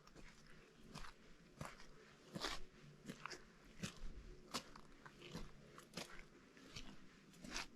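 Footsteps crunching on partly melted spring snow at a steady walking pace, roughly three steps every two seconds.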